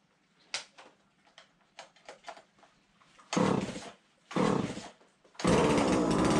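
Husqvarna 136 two-stroke chainsaw being pull-started, first with a few light handling clicks. Two short pulls on the recoil starter come next, and on a third pull about five and a half seconds in the engine catches and keeps running steadily. The saw rebuilt from two old ones starts and runs.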